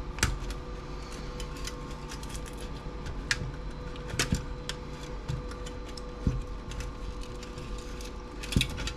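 Hand tools working on an old TV circuit board, giving scattered sharp clicks and snaps every second or so. A steady hum runs underneath.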